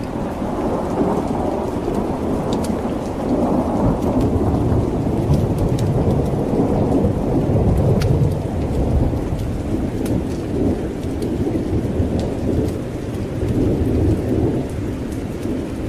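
Thunder rumbling long and low over steady rain, the rumble swelling to its loudest about halfway through, with scattered sharp clicks on top.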